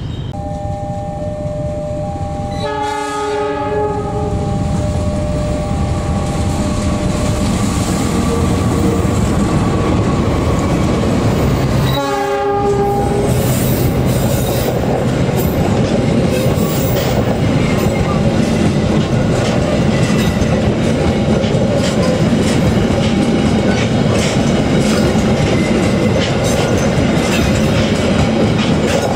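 Train horn sounding a long blast, then a second short blast about twelve seconds in. A passenger train then passes close by with a loud steady rumble and wheels clattering over the rail joints.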